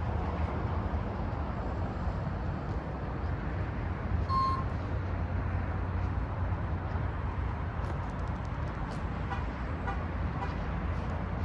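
Truck's diesel engine idling steadily with a low hum. About four seconds in there is one short electronic beep, and near the end a few faint clicks.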